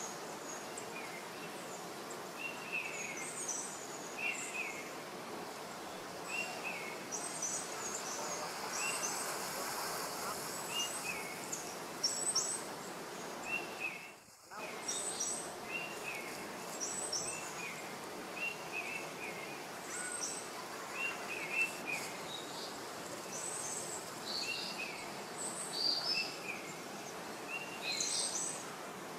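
Outdoor forest ambience: a steady hiss with small birds chirping over and over, short two-note calls coming about every second, and thinner, higher chirps above them. The sound briefly drops out about halfway.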